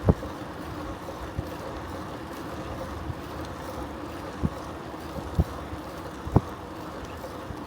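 Wind rushing over the microphone of a moving bicycle, with a steady low rumble and about half a dozen short, sharp thumps.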